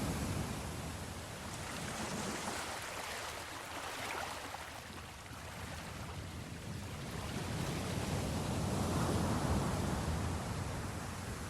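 Ocean waves washing in and drawing back, a steady rushing that swells and fades slowly, with a surge near the start and another about eight seconds in.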